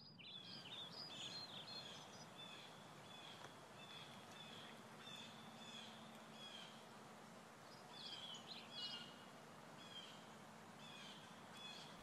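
Faint birdsong: many short, repeated chirps over a low steady hiss, busiest in the first two seconds and again about eight seconds in.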